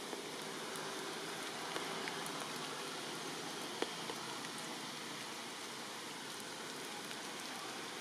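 Steady rain falling, with a few sharp single drop hits standing out, the loudest just before halfway.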